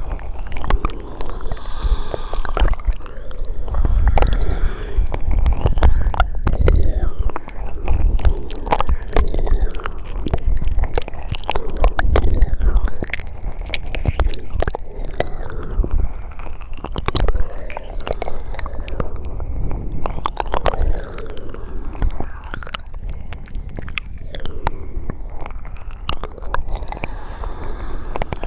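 ASMR mouth sounds made close to the microphone: a steady run of wet clicks, smacks and tongue sounds.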